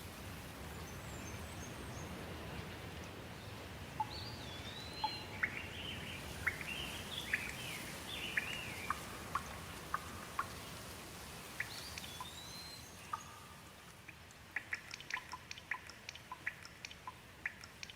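Steady rain with birds calling over it: a run of short chirps and sweeping whistled notes from about four seconds in. Near the end the rain thins and a scatter of sharp ticks takes over.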